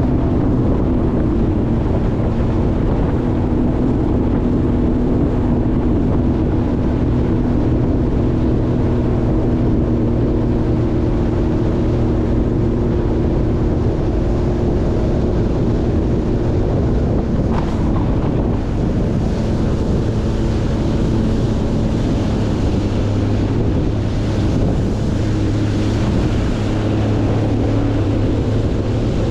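Jet ski engine running at a steady cruising speed, its hum holding one pitch, with wind on the microphone. Short rushes of hiss in the second half, with a brief sharp sound just before them.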